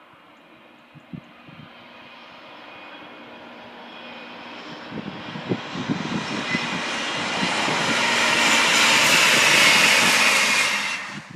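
Northern two-car diesel multiple unit approaching and passing close by, its engine and wheel noise swelling steadily to a peak about ten seconds in, then cutting off abruptly. A few low thumps sound along the way.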